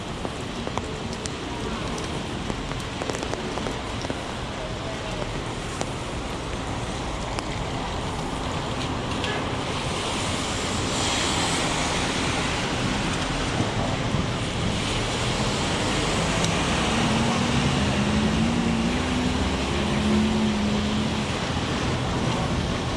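Heavy rain falling on a city street, with traffic noise and wet tyre hiss from passing vehicles. A vehicle swells up about halfway through, and the sound stays louder from there on.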